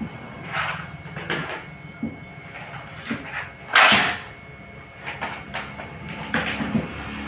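Workbench handling noises: a string of short scrapes and knocks, the loudest a brief scraping rush about four seconds in.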